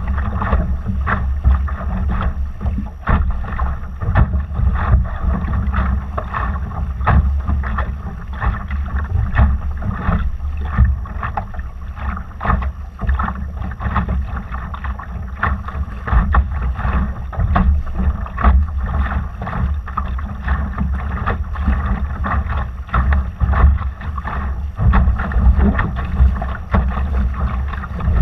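Wind buffeting the microphone while water rushes and slaps against a Laser sailing dinghy's hull under way, in frequent irregular splashes.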